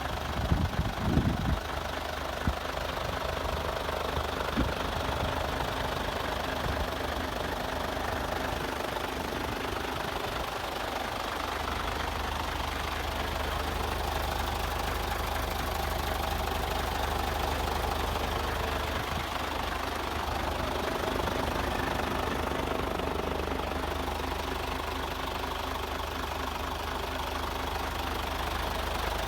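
Scania truck's diesel engine idling steadily. A few sharp thumps stand out in the first five seconds.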